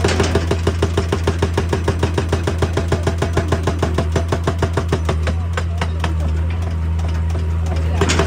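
Excavator-mounted hydraulic breaker hammer pounding rock in a fast, even rhythm of about eight blows a second over the excavator's steady diesel engine hum. The blows die away about six seconds in, leaving the engine running, and start again near the end.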